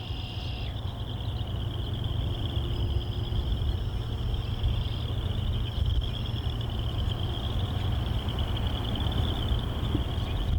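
Low rumble of an approaching freight train's diesel locomotives, still some way off and slowly growing louder. A steady high-pitched insect trill runs over it.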